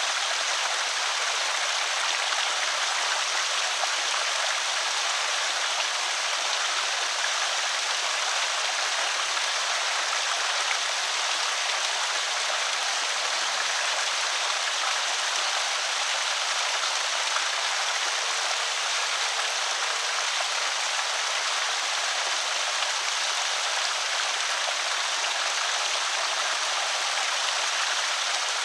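Water pouring over a small creek spillway: a steady, even rush of splashing water, light in the low end.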